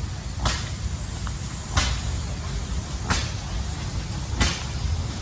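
A steam engine running slowly, with short, sharp puffs of hissing steam exhaust about once every 1.3 seconds over a steady low rumble.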